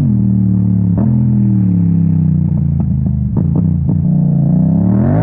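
Yamaha MT-07 parallel-twin engine through an Akrapovic exhaust under hard riding. The revs dip and hold, then climb steadily to a peak near the end and drop away as at a gear change, with a few short sharp cracks along the way.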